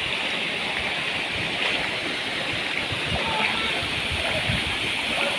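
Steady rushing of flowing water from a mountain stream.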